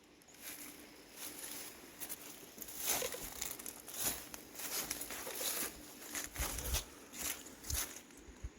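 Footsteps crunching irregularly over dry ground and brush, about one or two crunches a second.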